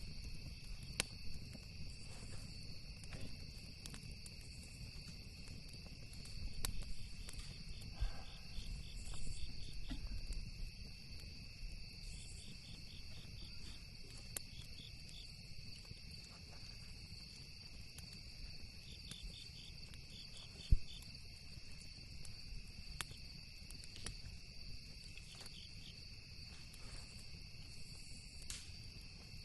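Crickets and other insects chirping in a steady night chorus, with pulsed trills coming and going, over a campfire crackling with scattered sharp pops, one louder pop a little after 20 seconds in. A low rumble runs underneath, louder for a few seconds near the start.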